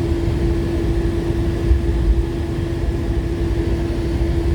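Steady running noise inside an AirTrain Newark monorail car in motion: a low rumble with a steady mid-pitched hum.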